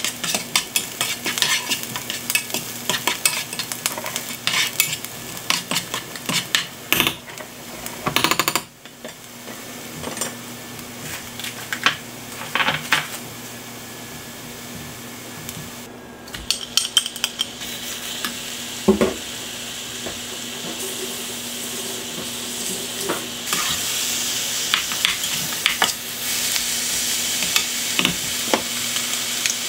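Chopped onion and garlic, then ground beef, sizzling in oil in a nonstick frying pan, stirred with a spatula that taps and scrapes against the pan many times. The frying hiss grows louder in the second half.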